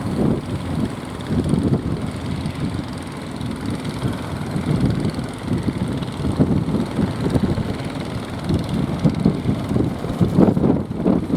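Strong, gusty wind buffeting the microphone: an uneven low rumble that swells and drops from moment to moment.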